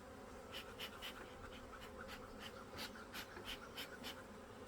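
Honey bees buzzing steadily around an open hive, over a quick series of short hissing puffs, about three a second, from a bee smoker's bellows being pumped. The smoker is not smoking well, by the beekeeper's account.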